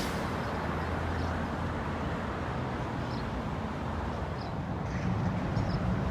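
Street ambience: steady traffic noise with a low hum, with a few short high chirps now and then.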